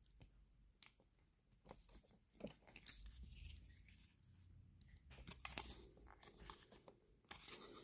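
Faint, scattered clicks and scraping as the toothed side piece of a window blind's top cover is slid into the groove of the top piece to form a corner.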